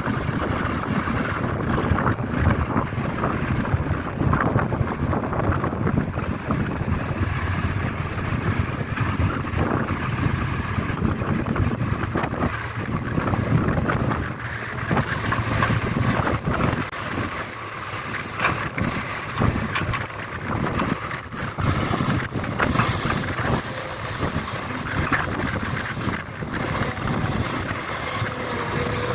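Heavy machinery engines running steadily, with wind buffeting the microphone and scattered knocks and clatter through the rumble.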